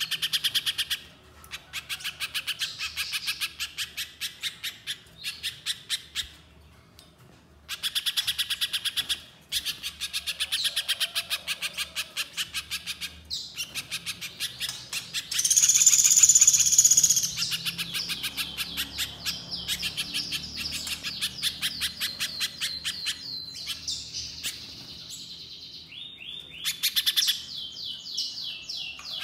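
Little spiderhunter (pijantung pisang) singing: long trains of rapid, repeated high chipping notes broken by short pauses. About halfway through comes a louder, higher-pitched stretch, and quicker trilled runs follow near the end.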